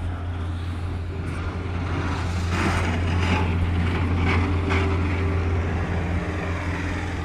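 A car engine running close by, a steady low hum that grows a little louder through the middle, with rushing noise over it.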